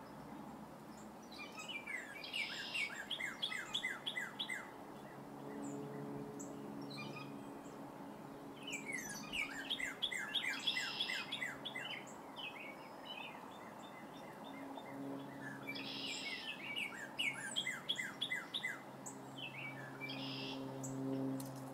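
A songbird singing, in phrases of rapid chirps a few seconds long, repeated about four times.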